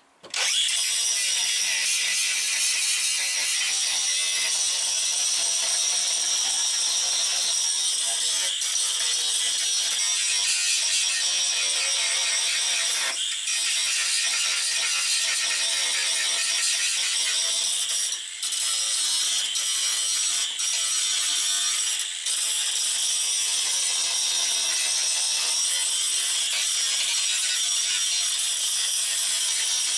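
Angle grinder grinding down a fresh weld on car body steel, a loud, steady high-pitched grinding that starts abruptly and is briefly eased off the metal a few times.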